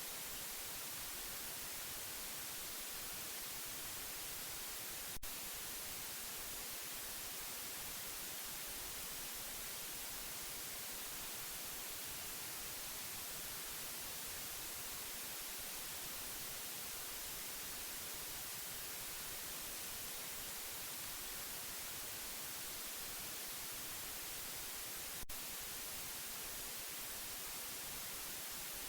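Steady white noise, an even hiss that does not change, with two brief clicks about twenty seconds apart, one about five seconds in and one near the end.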